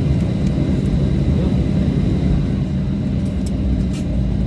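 Steady low cabin rumble of a Boeing 737-700 taxiing after landing, with a thin steady high tone over it and a few faint clicks near the end.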